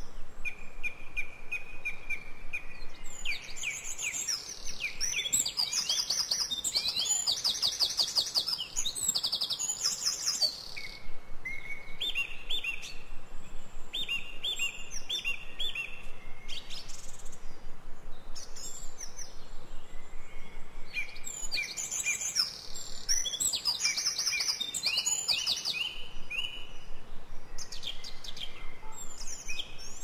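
Several songbirds singing at once, with overlapping phrases: runs of repeated high notes and fast, rattling trills, busiest around a quarter of the way in and again about three-quarters through.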